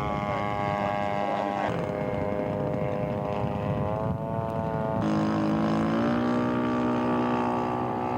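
Radio-controlled scale model airplane engines running, their pitch wavering a little. About five seconds in the sound changes to a lower engine note that rises, then holds steady.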